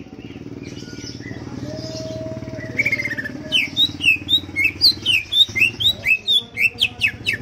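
Cucak ijo (green leafbird) singing: a few quieter notes, then about three seconds in a fast run of loud, sharp whistled chirps, about four a second, rising and falling in pitch.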